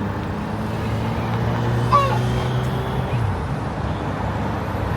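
Steady road and wind noise from riding in traffic, with a motor vehicle's low, steady engine hum that drops away about three seconds in. A brief high gliding chirp sounds near the middle.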